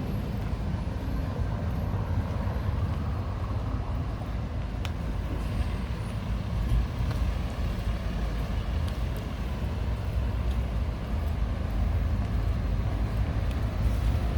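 Street traffic noise: a steady low rumble of road vehicles going by.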